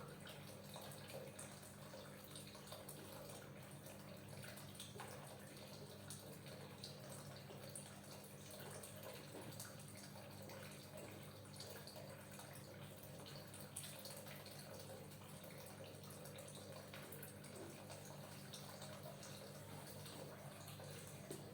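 Faint, wet, slippery sounds of oiled hands kneading the skin and muscles of a neck, with scattered small ticks over a steady low hum.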